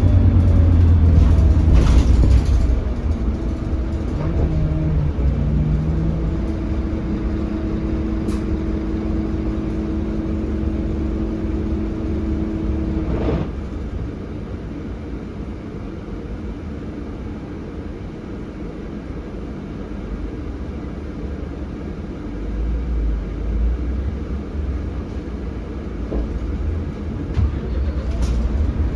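Scania K320HB bus on the move, its DC9 five-cylinder diesel and drivetrain rumbling, heard from inside the cabin. The rumble is loudest at first, eases off about halfway through, and builds again a few seconds before the end.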